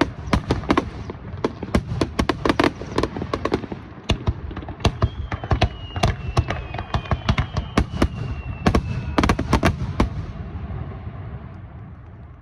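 Aerial fireworks bursting in rapid succession: many sharp cracks and bangs over a continuous low rumble, thinning out about ten seconds in and fading to a dying rumble. A couple of faint, slightly falling whistles run through the middle.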